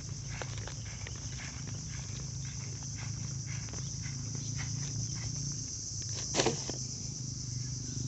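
Steady high-pitched chorus of insects such as crickets, with scattered small clicks and knocks and one louder knock about six seconds in.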